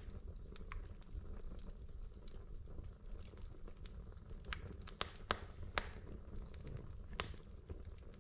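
Wood fire burning in a fireplace, a low steady rumble with scattered sharp crackles and pops from the logs, several louder snaps in the second half.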